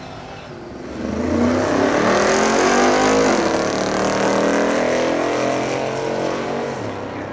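Drag racing car engine at full throttle, accelerating hard down the strip with its pitch rising. It gets loud about a second in and fades near the end.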